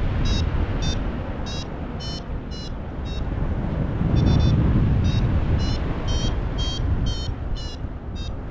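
Paragliding variometer beeping in short high-pitched beeps about twice a second, signalling that the glider is climbing in lift, over heavy wind noise on the microphone.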